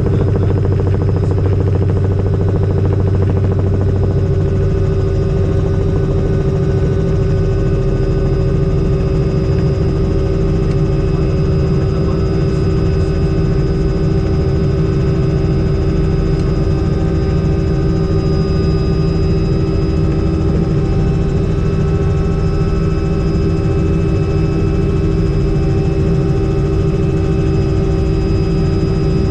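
Helicopter in flight: a loud, steady drone of rotor and engine with a constant whine over it, unchanging throughout.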